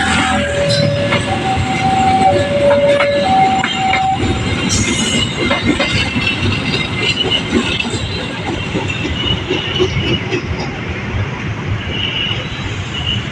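Electric multiple-unit commuter train passing close by, its wheels rumbling and clattering over the rails, with brief high wheel squeals. A level-crossing warning alarm alternates between two notes until about four seconds in, then stops.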